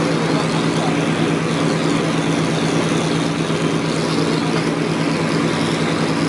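A heavy machine's engine running steadily with a constant hum, neither revving up nor slowing down.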